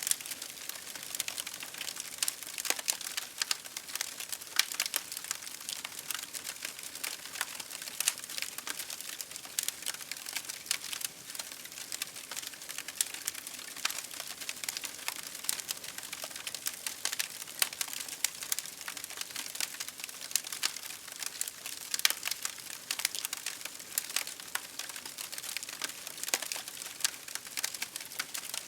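Campfire crackling: a continuous hiss of burning wood with dense, irregular sharp pops and snaps.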